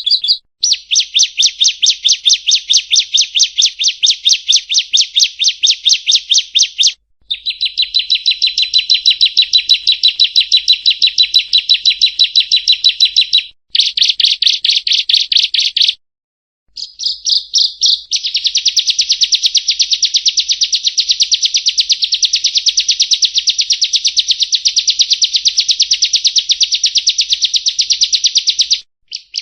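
Bar-winged prinia (ciblek kristal) singing long, rapid trills of fast repeated high notes. The trills come in runs of several seconds broken by short pauses, the longest running about ten seconds near the end.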